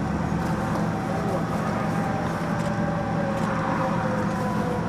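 Vehicle engine idling, a steady low hum under a continuous outdoor rush of noise.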